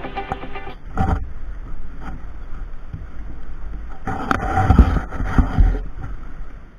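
Riding sound from a Royal Enfield Classic 350 motorcycle: wind rushing over the action camera's microphone, with heavy buffeting gusts about a second in and again for a couple of seconds past the middle. The end of a music track fades out in the opening moment.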